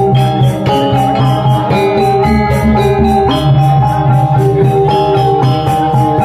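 Balinese gamelan gong ensemble playing: ringing metallophone tones in dense patterns over deep gong tones, with fast, even cymbal strokes about five a second.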